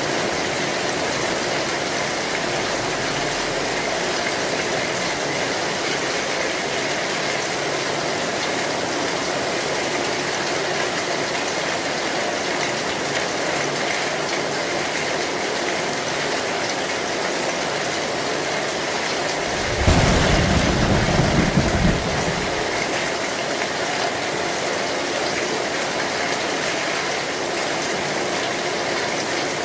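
Heavy rain pouring steadily on an old zinc (tin) roof. About twenty seconds in there is a short, loud low rumble of thunder lasting about two seconds.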